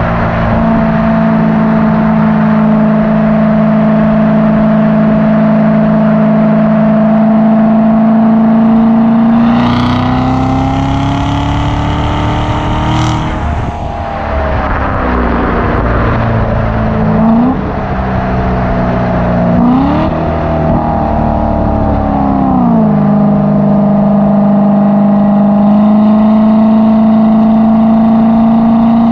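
2016 Corvette Z06's supercharged 6.2-litre V8 running at steady revs, then accelerating with the pitch climbing for a few seconds up to a gear change. Two short rises in revs follow, and it settles back to steady cruising.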